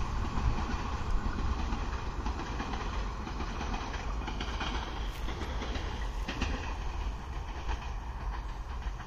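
Train running on the rails with a steady low rumble and some clickety-clack, easing slightly in loudness, with a few faint sharp clicks in the second half.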